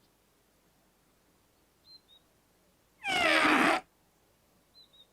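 Makka Pakka's cartoon trumpet giving one short, strange, yowling blare about three seconds in, its pitch falling, with a stone lodged inside it causing the odd sound. A few faint high bird-like chirps come before and after it.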